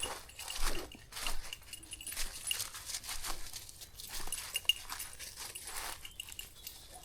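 A dog close by, making a series of short, noisy sounds, several a second.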